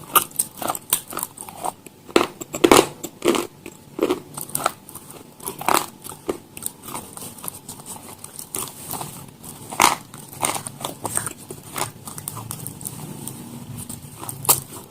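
Crunchy food being bitten and chewed: irregular sharp crunches, with a cluster of loud ones near the start and another about ten seconds in.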